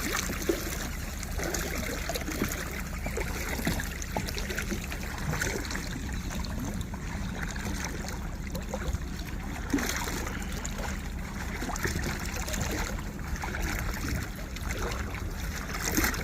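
Water lapping and trickling against a kayak hull, with small splashes and a steady low rumble underneath.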